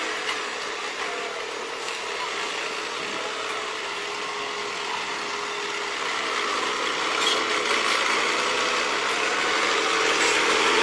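A machine running steadily, a whining tone over a hiss, growing louder in the second half.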